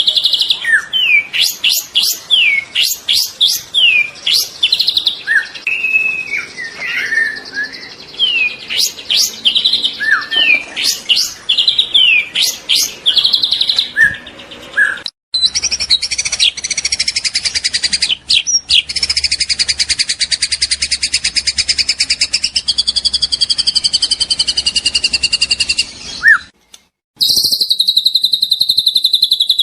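White-rumped shama (murai batu) song: loud, varied whistled phrases and sharp chirps. About halfway through, after an abrupt cut, it changes to a long, very rapid rattling trill, the 'trotol' rapid-fire delivery, which stops briefly near the end and then resumes.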